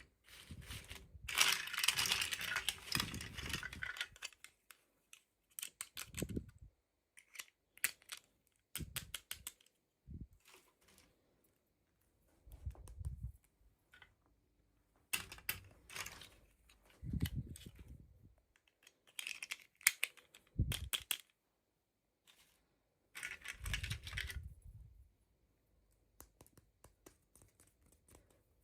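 Toy packaging and small plastic doll pieces being handled: bursts of rustling and crinkling with sharp plastic clicks and taps, broken by short silences.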